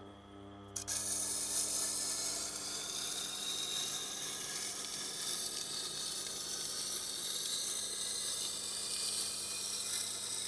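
Knife blade held against the turning wheel of a Tormek sharpening machine, making a steady grinding hiss that starts about a second in over the low hum of the machine's motor.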